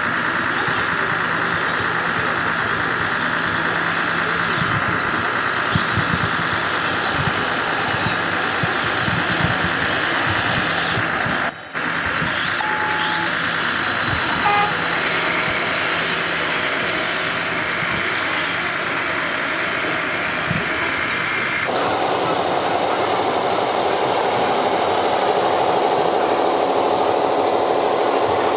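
Radio-controlled construction trucks running with a steady, high-pitched motor whine. About two-thirds of the way in it cuts to a lower-pitched running sound.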